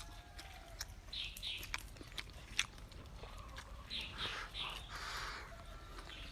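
A person chewing and biting crunchy food close to the microphone: repeated short crunches, with sharp clicks scattered through.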